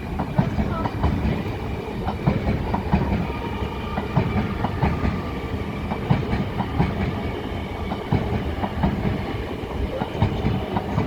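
A train moving through the station, its wheels clattering irregularly over rail joints and points above a steady low rumble.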